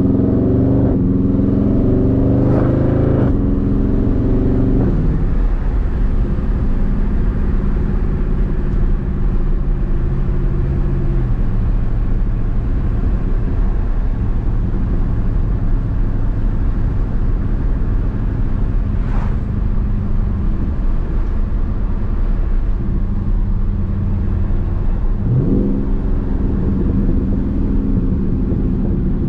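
Dodge Charger Daytona 392's 6.4-litre HEMI V8 pulling with rising revs for the first few seconds, then dropping back to a steady cruise. Revs briefly rise again about 25 seconds in.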